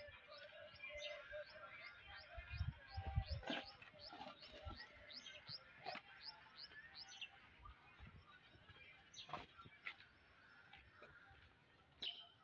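A bird calling in a fast run of short, high, downward-sliding notes, about three a second, that stops about seven seconds in. A few low thumps about three seconds in.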